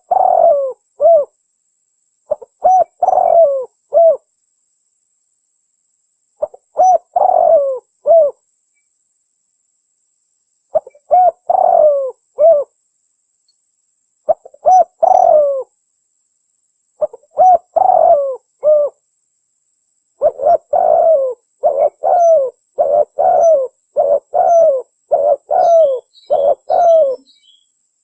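Terkukur merah dove cooing in short phrases of a few coos each, separated by silent gaps. In the second half the phrases follow one another almost without pause. A few faint high chirps sound near the end.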